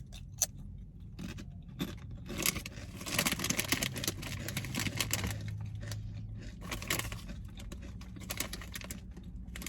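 Paper sandwich wrapper rustling and crinkling as it is handled, in irregular crackly bursts, busiest in the middle stretch, over a low steady hum.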